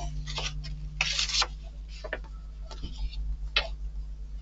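Small scattered clicks and brief rustles of model-kit parts being handled and fitted together by hand, over a steady low electrical hum.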